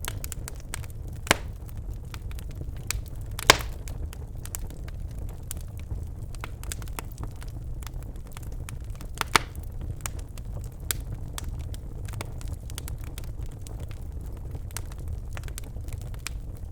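Birch logs burning in a fireplace, crackling with many small ticks and a few sharp louder pops, the loudest about three and a half seconds in, over a steady low rumble of the fire.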